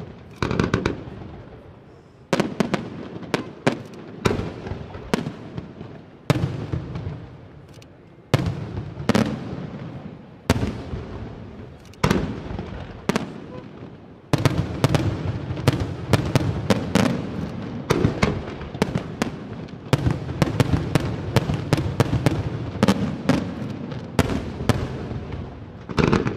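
Aerial firework shells bursting with sharp bangs every second or two, each trailing off with crackle. About halfway through they build into a near-continuous barrage.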